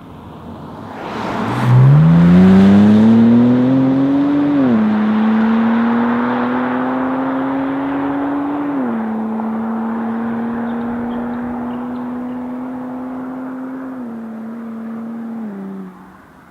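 Kia Stinger GT's twin-turbo V6 accelerating hard from low revs, its pitch climbing quickly and then dropping at upshifts about four and a half and nine seconds in. It then pulls steadily and eases off near the end.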